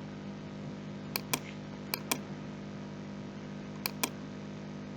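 Computer mouse clicking: three pairs of sharp clicks, about a second in, two seconds in and near four seconds, over a steady low electrical hum.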